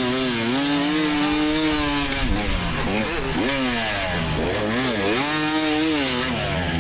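2024 GasGas EX300 two-stroke dirt bike engine under race throttle, its pitch climbing and dropping off again about five times as the rider opens and closes the throttle, with the deepest dips around two, four and six seconds in.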